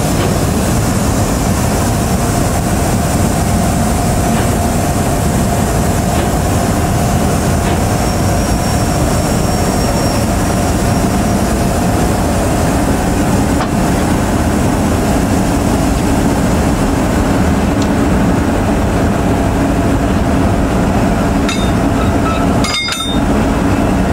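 Train running on the rails: a steady, loud rumble of a moving train with a steady hum over it, dipping briefly near the end.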